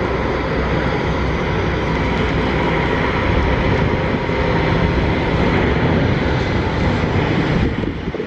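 Airbus A350-941's Rolls-Royce Trent XWB turbofan engines at takeoff power, a steady loud rumble with a faint high whine.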